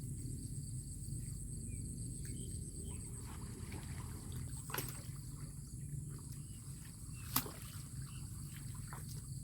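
Steady low rush of flowing water, with two sharp clicks about five and seven seconds in, over a steady high insect drone.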